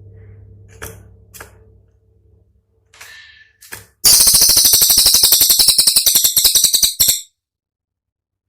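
Cililin bird singing: a few short, sharp call notes, then, about four seconds in, a loud rapid rattle of piercing high notes, about ten a second for some three seconds, that cuts off suddenly.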